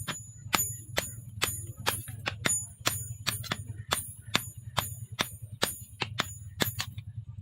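Hammer blows on the leaf-spring steel against an anvil, a little over two strikes a second, each with a bright metallic ring, over a steady low hum.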